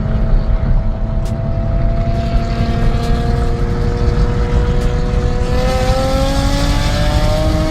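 A car engine running under way with heavy low rumble, its note steady at first and then slowly rising in pitch over the last couple of seconds as it picks up speed.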